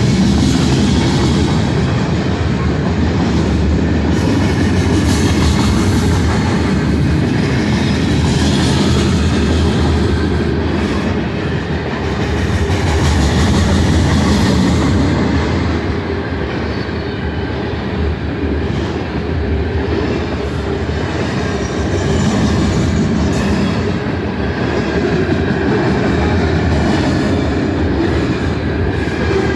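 Loaded freight cars of a phosphate train rolling steadily past, a continuous rumble of steel wheels on rail with clickety-clack over the joints and occasional wheel squeal.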